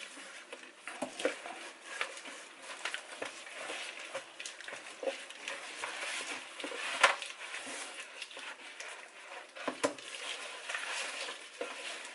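Kitchen handling noises: scattered small clicks and knocks of dishes and utensils being moved about, with a sharper knock about seven seconds in and another near ten seconds.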